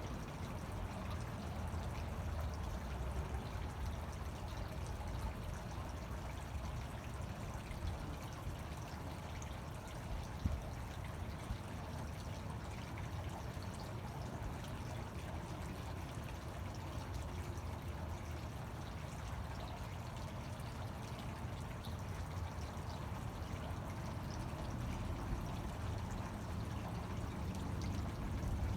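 Fountain water splashing and pouring steadily.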